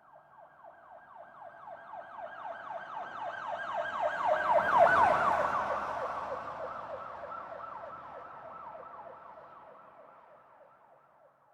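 Police car siren on a fast yelp, about three to four rapid pitch sweeps a second. It approaches, is loudest about five seconds in with a brief rush of the passing vehicle, then fades away as it recedes, its pitch dropping slightly as it passes.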